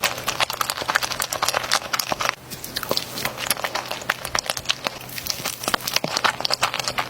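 Close-miked eating sounds: chewing with many small, quick, wet mouth clicks and crackles, pausing briefly about two and a half seconds in.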